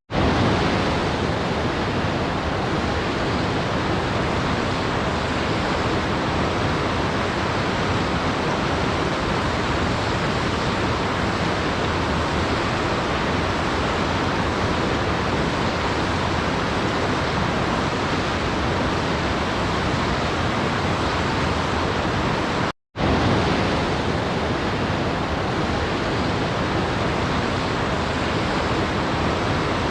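Steady, even rushing of a waterfall. About 23 seconds in it cuts out to silence for a moment and then resumes, like a loop restarting.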